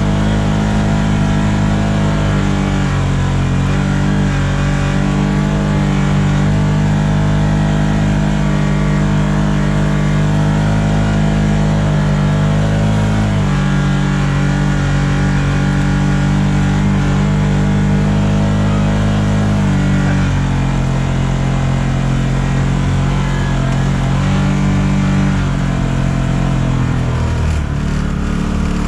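A vehicle engine running on a ride. Its note holds steady, then steps down and back up a few times as the throttle or gear changes, and drops near the end.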